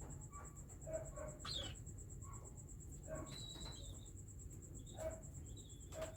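Baby cockatiels giving short, soft chirping calls at irregular intervals, with a thin high whistle about halfway through and again near the end.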